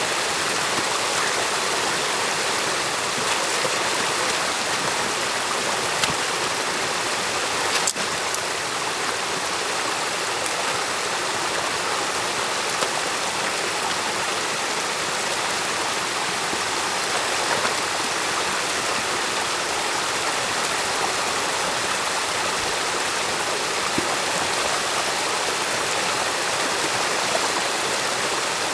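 Stream water rushing and splashing steadily, with a couple of short sharp clicks about six and eight seconds in.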